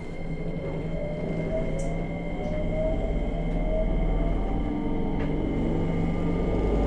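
JR Kyushu 303 series electric train running up to speed, heard from above a motor car's bogie: a rising motor whine over a heavy rumble, growing louder. This car is known for violent vibration and a groaning from around its traction motors as they turn, the sign of an abnormal-noise motor.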